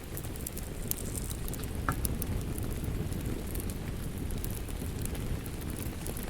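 Wood fire crackling: a steady low rush of flames with scattered sharp snaps and pops, one stronger pop about two seconds in.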